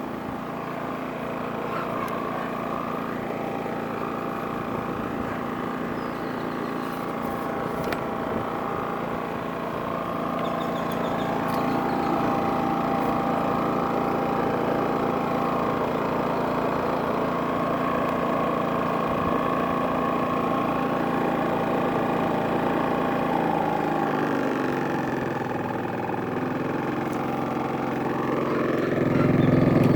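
Champion 4650 inverter generator's small single-cylinder engine running steadily in eco mode while powering a heat gun. Near the end its engine speeds up and gets louder as the inverter throttles up.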